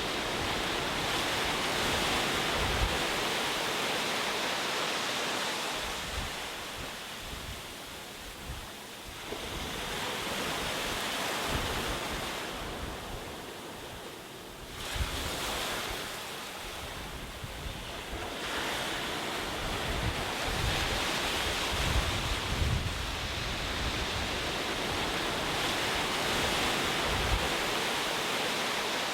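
Ocean waves breaking and washing up the shore, the surf swelling and falling back in several surges, with a sudden rise about halfway through. Wind buffets the microphone with low rumbles.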